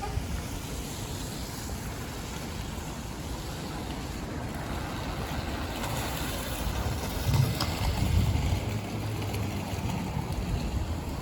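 Street noise with wind rumbling on the microphone; a low engine hum swells about halfway through and fades near the end.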